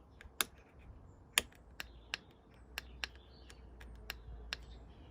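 Handlebar switch buttons on a 2019 KTM Super Duke GT clicking as they are pressed over and over, about nine sharp, irregular clicks. Nothing else answers: no starter and no fuel pump, because the bike's electrics are dead.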